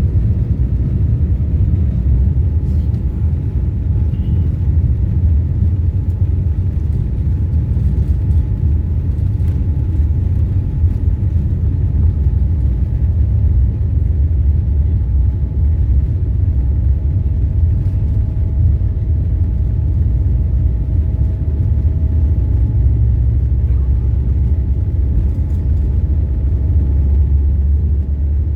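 Boeing 787 Dreamliner's jet engines running after start-up, heard inside the cabin: a steady low rumble with a faint steady whine over it.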